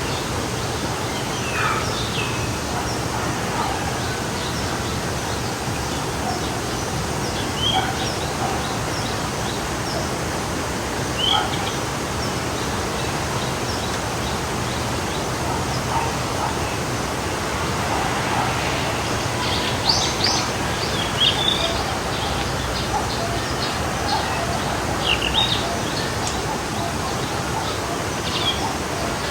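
A forest stream running with a steady rush of water, while small songbirds chirp and trill now and then, more often in the second half.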